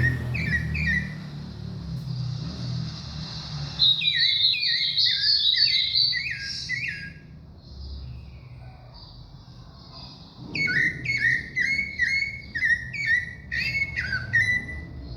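A sabiá (Brazilian thrush) singing: runs of quick, repeated down-slurred whistled notes, one about four seconds in lasting some three seconds, and another from about ten and a half seconds in to the end.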